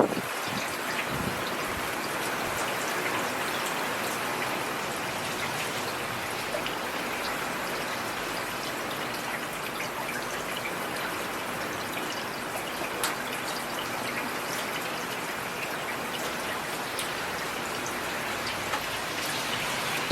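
Heavy rain falling steadily: a dense, even hiss with individual drops ticking sharply here and there.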